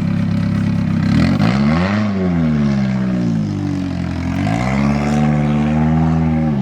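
Car engine revving: it climbs sharply about a second in, drops back, then climbs again about halfway through and holds high.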